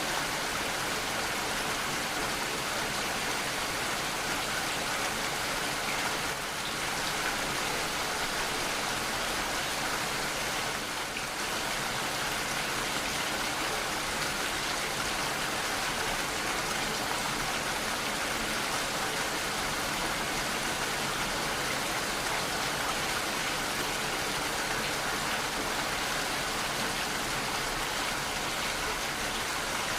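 Steady rainfall, raindrops falling on surfaces in an even, continuous hiss.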